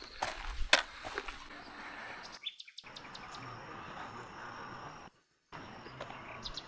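Outdoor nature ambience: a steady hiss with faint birdsong and insects. A few sharp clicks come in the first second, and the sound cuts out briefly twice, about halfway through and again later.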